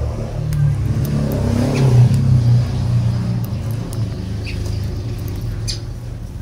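A motor vehicle going past, its low engine rumble swelling about two seconds in and then fading. A few short lovebird chirps sound over it.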